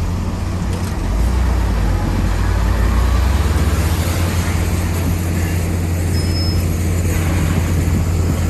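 Komatsu D65PX bulldozer's diesel engine running steadily in a deep drone, getting a little louder about a second in.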